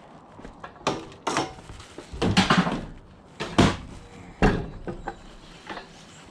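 A series of sudden knocks and bangs, roughly one a second, some with a short rattle after them.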